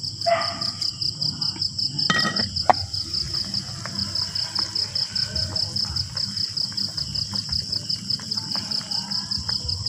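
Insect chirping steadily, a high-pitched trill pulsing several times a second, with scattered faint clicks and one sharp knock a little under three seconds in.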